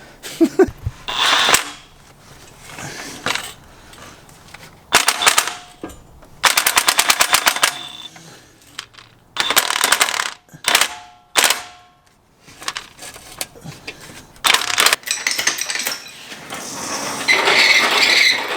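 Impact wrench run in about seven short bursts of rapid hammering, one of them a longer run of even, fast strikes.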